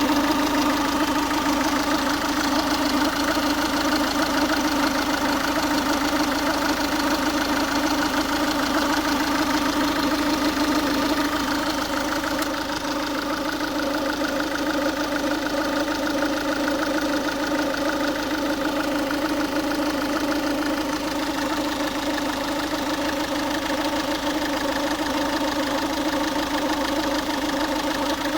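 Ford Focus 1.6 TDCi four-cylinder turbodiesel engine idling steadily while warm, with the noise that its owner hears only when the engine is warm and whose cause he does not know. It gets slightly quieter about 11 seconds in.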